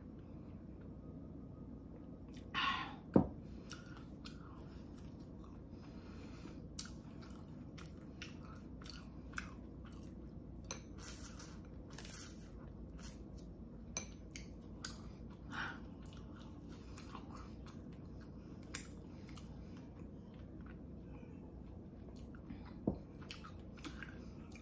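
Faint close-up mouth sounds of a person chewing and biting a soft red bean sweet rice donut, with small wet clicks throughout. A sharp knock about three seconds in is the loudest sound, and there is a short sip through a straw near the middle.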